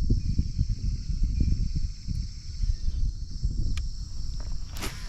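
Steady high chorus of crickets over a loud, uneven low rumble; near the end a quick swish as a fishing rod casts a lure.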